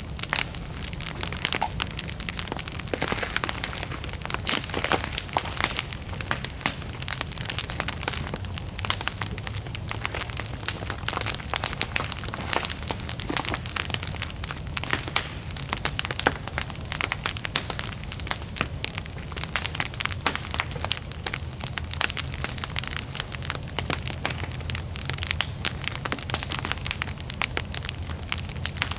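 Wood bonfire burning with a dense, irregular crackle of sharp pops and snaps over a steady low rumble of flame.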